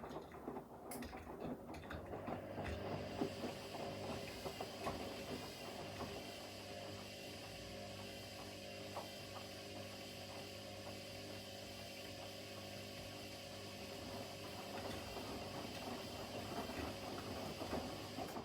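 Front-loading washing machine mid-wash: the drum turns with light clicking and pattering of the load, then a steady motor hum takes over from about two seconds in, before the clatter of tumbling returns near the end.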